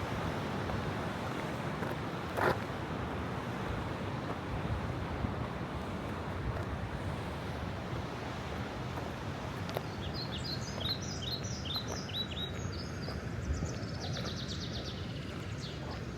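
Steady rush of the Stäubifall waterfall's falling water, with a single short knock a couple of seconds in. About ten seconds in, a songbird sings a run of quick descending notes, then a rapid trill.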